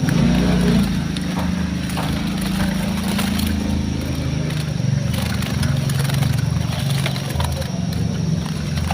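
An engine running steadily: a low, even hum whose pitch dips slightly about halfway through.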